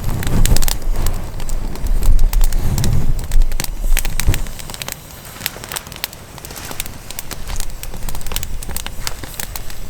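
Wood fire crackling with many sharp pops, over a low rumble that is strongest in the first few seconds.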